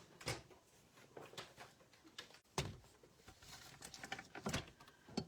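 Paper and craft tools being handled on a table: a few scattered light knocks and rustles, the loudest about two and a half seconds in.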